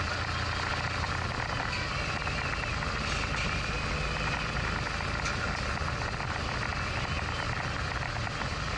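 Steady low engine rumble with an even wash of mechanical noise, unchanging throughout.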